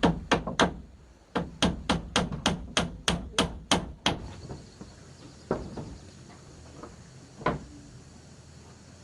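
Hammer blows: a quick run of about ten strikes, roughly three a second, then a pause and a couple of single blows.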